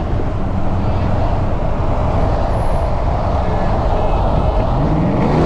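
Dodge Charger R/T's HEMI V8 pulling hard at full throttle from highway speed, heard from inside the car as a loud, dense engine and road roar. The engine note climbs near the end.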